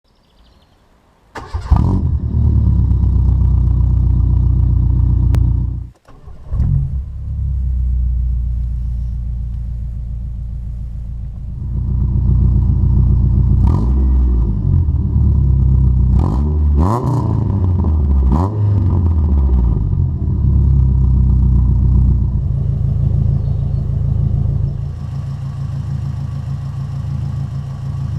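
Citroen Saxo VTS's four-cylinder 8-valve engine, heard through its complete exhaust, starting about a second and a half in and running. It cuts out briefly around six seconds and restarts, then is revved up and down several times before dropping back to a steady idle.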